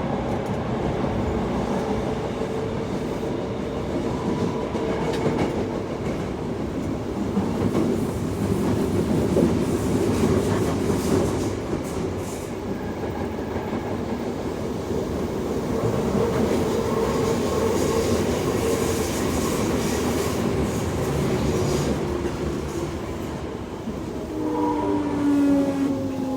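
Toei Asakusa Line 5300 series electric train running, heard from inside the car: steady wheel-and-rail running noise with a motor hum. Near the end several tones slide down in pitch.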